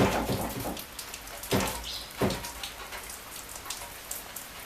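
Hand tools clinking and knocking on metal hardware as a stuck fender bolt on a 1976 Chevrolet Camaro is worked: two sharp knocks about a second and a half and two seconds in, among many light ticks and rattles. The bolt has broken free but is spinning in place instead of coming out.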